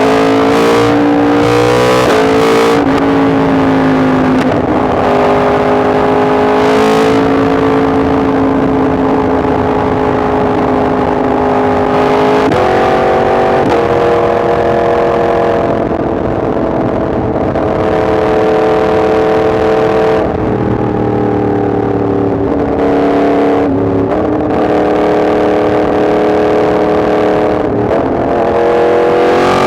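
Yamaha MT-10 SP's crossplane inline-four engine running under way on the move, its note holding steady for stretches and stepping up or down every few seconds as the throttle and gears change.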